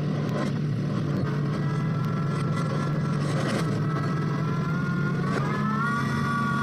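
Engine of a well-drilling machine running steadily, with a whining tone above it that rises in pitch about five seconds in and then holds.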